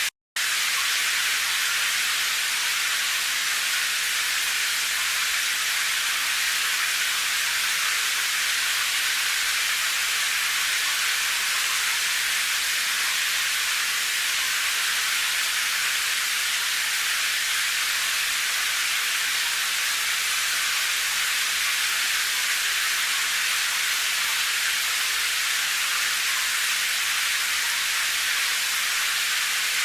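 Steady, even hiss of rain falling, with no separate drops or rhythm standing out. It cuts out to silence for a split second just after the start.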